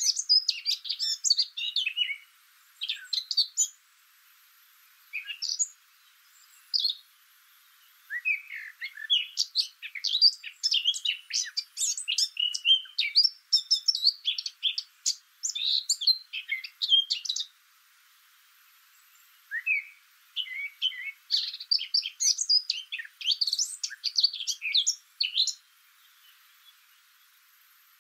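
Small birds chirping and twittering in rapid clusters of short high calls, broken by lulls of a few seconds. The sound is thin, with nothing low beneath the calls.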